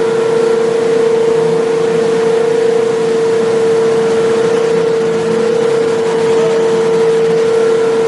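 Induction melting furnace running: a steady hum held on one pitch over a constant rushing noise.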